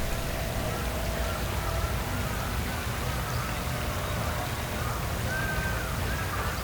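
Outdoor nature ambience: a steady low rumble and hiss, with a series of short, arching calls repeating from about two seconds in as an animal calls again and again.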